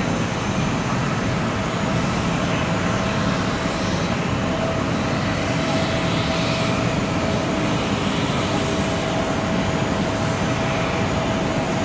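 Jet airliner's engines running steadily at the gate, an even roar with a steady whine held over it.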